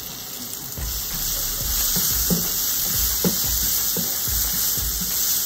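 Onion-tomato masala sizzling in a non-stick frying pan as ground coriander and garam masala are fried into it, with a wooden spatula stirring and scraping the pan, the scraping more frequent from about a second in.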